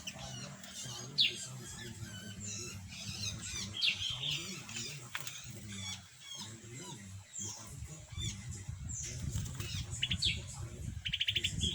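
Small birds chirping: many short, high, sharply falling call notes, overlapping and repeated, with a fast rattling trill near the end. A low steady hum runs underneath.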